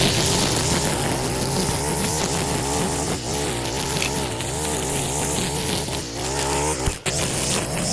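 A small two-stroke engine on a gas-powered yard tool (chainsaw or trimmer) running under changing load, its pitch wavering up and down. It drops off briefly near the end.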